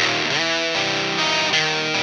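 Baritone-tuned Fender Telecaster with flatwound strings, played with some overdrive through an amp: sustained low chords and notes, one of them sliding up in pitch about half a second in.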